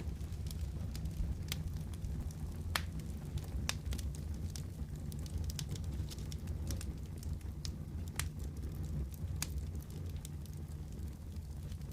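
Wood fire crackling: scattered sharp pops and snaps, a few louder than the rest, over a steady low rumble.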